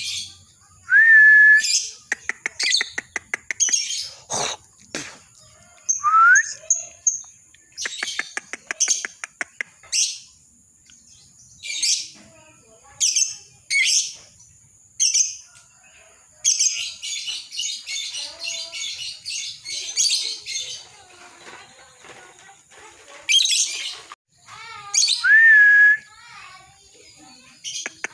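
Lovebird chattering in sharp repeated chirps and squeaks in short bursts. About halfway through comes a long, fast rattling chatter run, the 'ngekek' song. A clear rising whistle comes near the start and again near the end.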